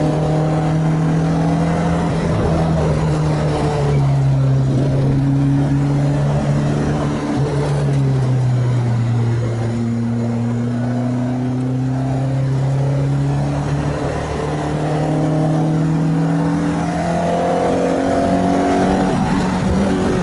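Freshly rebuilt Renault Clio 2 RS 2.0-litre four-cylinder engine running hard on track. Its pitch drops in two steps in the first half, then climbs slowly and steadily through most of the second half.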